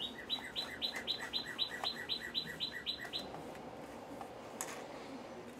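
A songbird calling a rapid series of short, high, down-slurred notes alternating between two pitches, about eight a second, stopping after about three seconds; a single click follows later.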